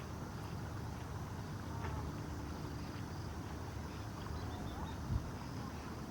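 Outdoor ambience: a low steady rumble with a few faint, short bird chirps, and a single thump about five seconds in.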